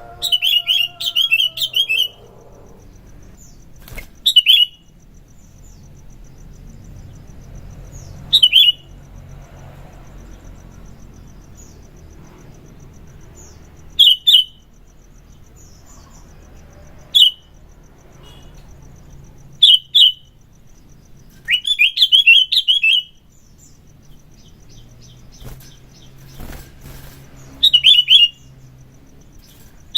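Sooty-headed bulbul (kutilang) calling in short, loud phrases every few seconds, with a longer run of notes near the start and another about two-thirds through.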